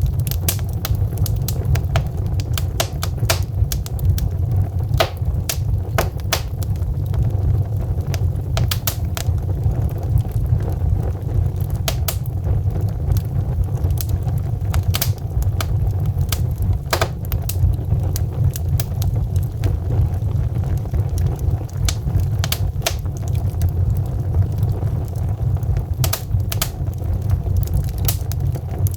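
Log fire crackling in a fireplace: frequent, irregular sharp pops and snaps over a steady low rumble of the flames.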